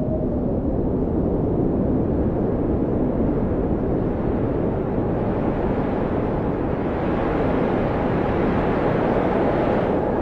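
Blizzard wind blowing steadily, a deep rushing noise with a faint howling whistle that rises in pitch near the end.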